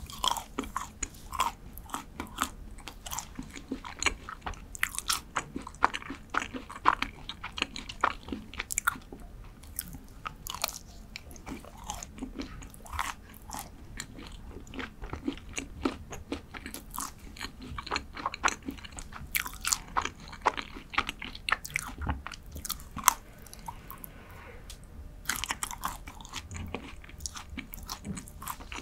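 Close-up biting and chewing of dark chocolate: crisp snaps and crunches, many a second, with a short pause near the end.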